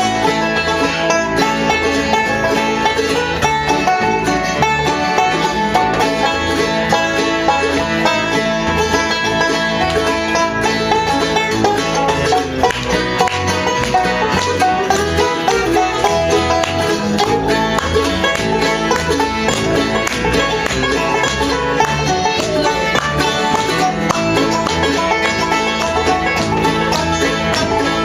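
Bluegrass band playing a gospel number, with banjo and guitar picking.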